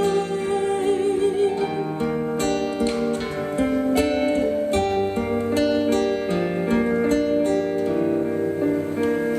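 Instrumental passage of a pop song on an electronic keyboard: a melody over held chords and a steady bass, with plucked, guitar-like notes and no singing.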